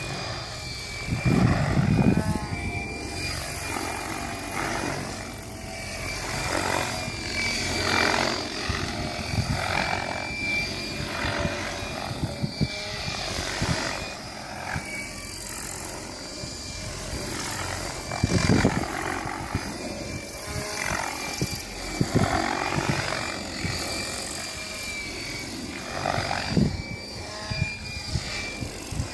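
Electric Mikado Logo 600 RC helicopter flying 3D manoeuvres: a steady high whine from the motor and drive, and rotor-blade whoosh that rises and falls as the pitch and position change. A few strong low rushes stand out, the loudest about a second and a half in and again around two-thirds of the way through.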